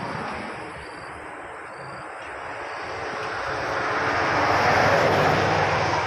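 A vehicle passing on the road: its noise swells to a peak about five seconds in and then fades.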